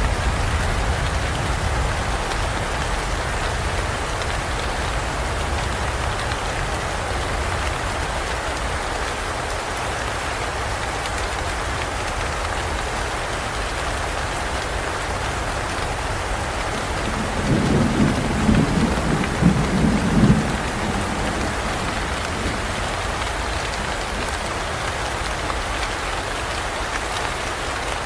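Steady heavy rain falling in a forest, with thunder: a low rumble fading away at the start, and a louder rolling peal of thunder for about three seconds past the middle.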